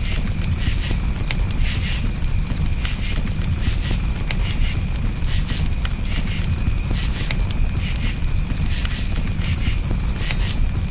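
Crickets chirping in quick repeated pulses over a crackling campfire, with frequent sharp pops and a constant low rumble.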